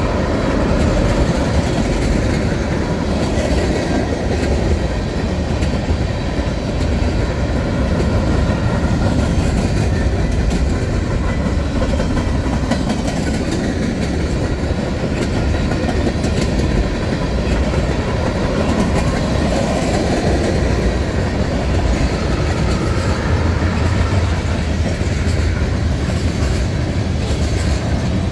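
Freight train's tank cars rolling past close by: steel wheels running over the rails with a steady loud rumble and fine clicking at the rail joints. Autorack cars follow near the end.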